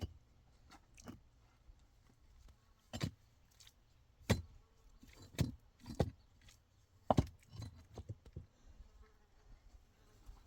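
A handful of sharp knocks or clatters at irregular intervals, about a second apart, with a quick double knock a little past the middle.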